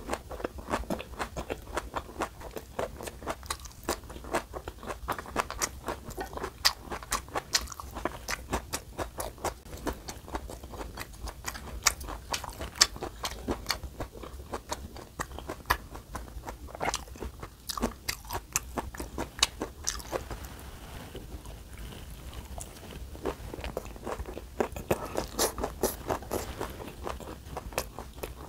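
Close-miked chewing of flat dumplings wrapped around raw vegetables in red pepper paste: a quick run of crisp crunches and wet mouth clicks. The chewing thins out for a few seconds past the middle, then picks up again.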